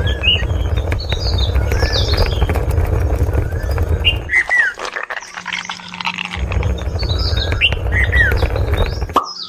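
Birds chirping in short rising and falling calls over a loud low rumble. The rumble drops out for about two seconds midway and stops again just before the end.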